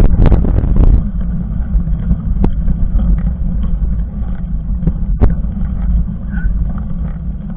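Steady low rumble of riding noise, wind buffeting the microphone and mountain bike tyres rolling over the trail, louder in the first second, with a couple of sharp knocks from the bike.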